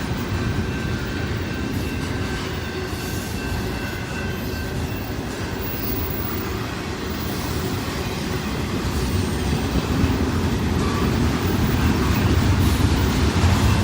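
Double-stack container cars of a freight train rolling past, a steady rumble of steel wheels on rail with a faint high wheel squeal in the first few seconds.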